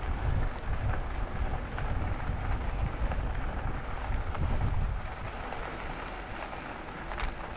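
Wind buffeting the microphone, with rumbling road noise, as an e-bike rides along a trail. The gusts ease off after about five seconds, and a single sharp click comes near the end.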